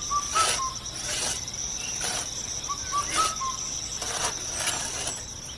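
Steady high-pitched cricket trill, with a bird giving a few short rising chirps twice. Brief soft noise bursts come roughly once a second.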